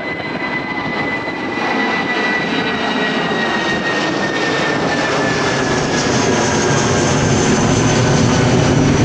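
Jet airliner's engines on approach, growing steadily louder as it nears. A high whine slowly falls in pitch over a low rumble that builds toward the end.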